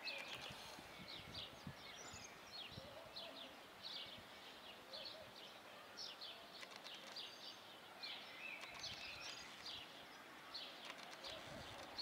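Small birds chirping in quick, repeated short calls over faint, steady background noise.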